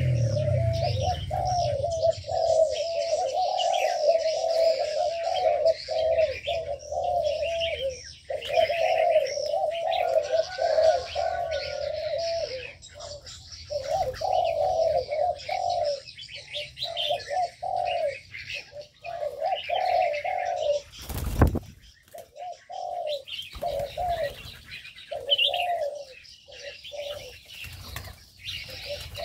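Doves cooing over and over in wavering, rolling phrases, with small birds chirping high above them. About 21 seconds in there is a single sharp knock.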